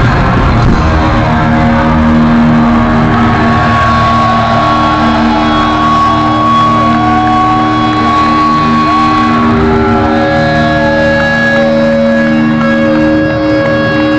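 Loud live heavy metal recorded through a phone's microphone: distorted electric guitar holding long notes and bending them over the band.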